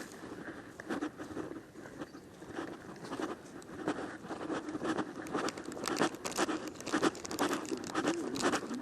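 Irregular rustling, crinkling and small clicks of things being handled close by.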